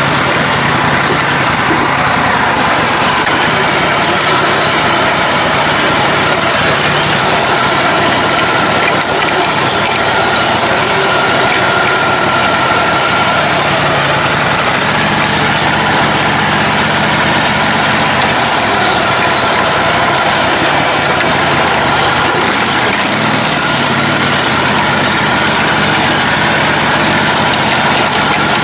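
Engine of a lifted, modified riding lawn mower running continuously while it crawls over a wooded trail, loud and close as heard from on board.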